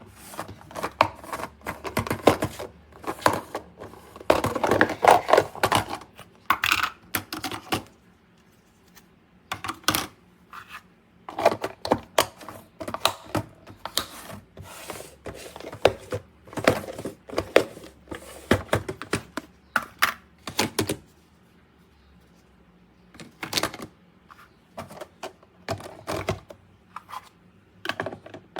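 Irregular clicking, knocking and clattering of hard plastic food storage containers, lids and colander inserts being handled, with two short pauses.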